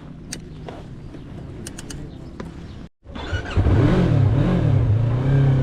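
Yamaha MT-03 motorcycle engine, first running low and steady with a few light clicks. Then, about three seconds in, it is much louder and accelerating: the revs climb and drop twice, then hold steady.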